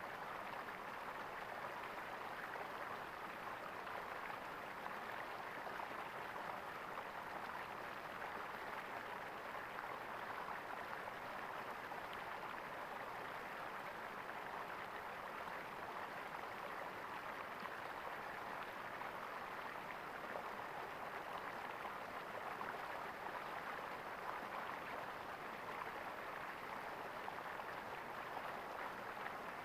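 Flowing stream water gurgling steadily, an even rushing with no breaks.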